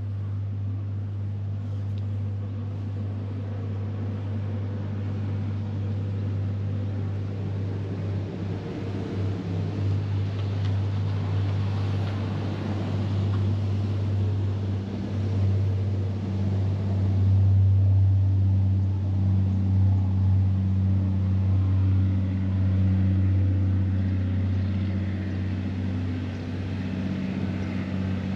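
A motor vehicle's engine running steadily as a low hum, growing somewhat louder past the middle with traffic noise.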